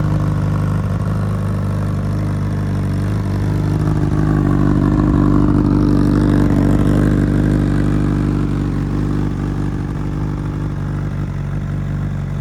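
Honda CBR1000RR Fireblade's inline-four engine idling steadily through a Racefit aftermarket exhaust. It grows louder from about four seconds in, then eases off toward the end.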